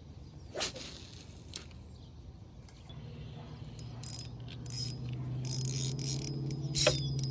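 Fishing reel being cranked on a retrieve: a couple of sharp clicks, then from about three seconds in a steady gear whir that grows louder, with light ticking over it.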